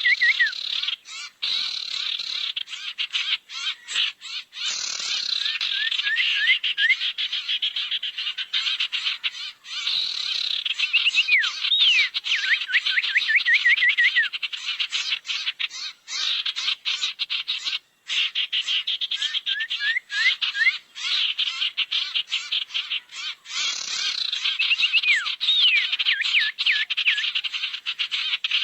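Bird-luring recording: a dense, continuous chatter of many small birds, with rapid clicking calls and series of short rising whistled notes that come round again about every twelve seconds, as in a looped track.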